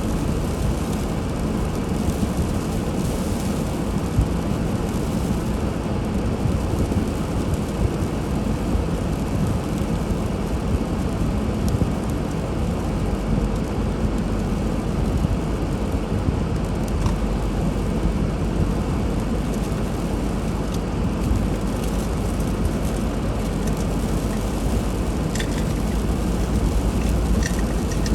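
A car driving along, with a steady low rumble of engine and tyres on the road and a few faint ticks near the end.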